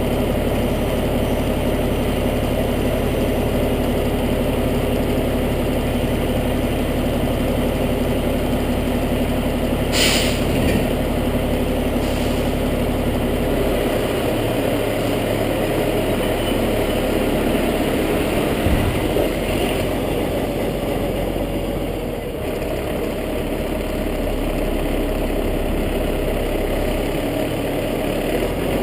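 Fire truck's diesel engine running steadily, its low note shifting about fourteen seconds in, with a short hiss of air about ten seconds in.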